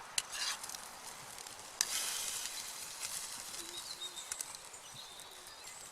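Minced beef sizzling as it browns in a pan over a campfire. The sizzling jumps louder about two seconds in, with scattered sharp clicks and crackles throughout.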